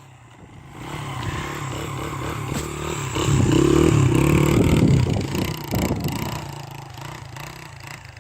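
Honda XR100 dirt bike's single-cylinder four-stroke engine revving, its pitch rising and falling. It builds from about a second in, is loudest around three to five seconds, then fades away as the bike moves off.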